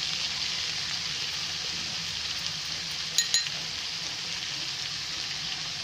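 Chopped vegetables sizzling in hot oil in an aluminium pan, a steady frying hiss. Two quick light metal clinks a little past three seconds in.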